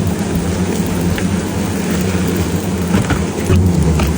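A swarm of disturbed Asian giant hornets buzzing around their nest, a loud steady low hum under a rushing noise.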